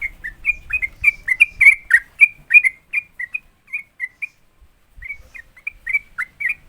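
Sooty-headed bulbul (trucukan) singing a rapid run of short, clear whistled notes, about five a second, in the fast 'ropel' style. The song breaks off briefly about four seconds in and then picks up again.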